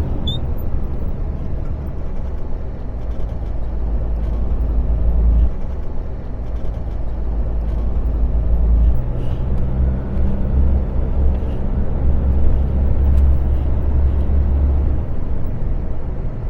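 Semi-trailer truck's diesel engine running on the move, a steady low drone whose pitch shifts about five and a half seconds in, again around nine seconds and near fifteen seconds.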